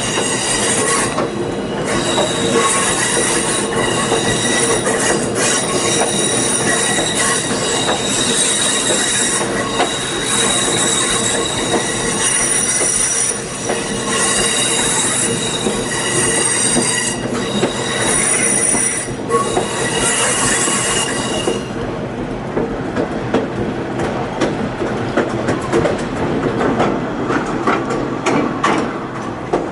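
Passenger train rolling with its steel wheels squealing against the rails in several steady high tones. About 21 seconds in the squeal stops, leaving the rumble and clicking of the wheels on the track.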